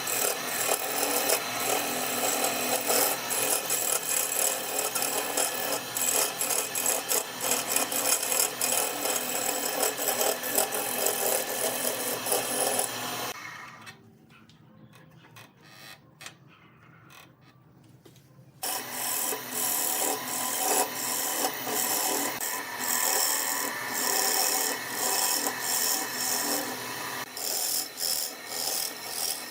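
Wood turning on a lathe: a hand tool cutting and scraping the spinning wood in a continuous rasping noise, dropping away for about five seconds midway before the cutting starts again.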